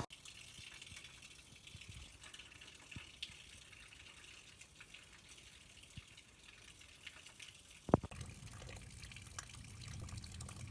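Heavy rain pouring down: a steady hiss of falling drops with scattered pattering ticks, and one sharp knock about eight seconds in.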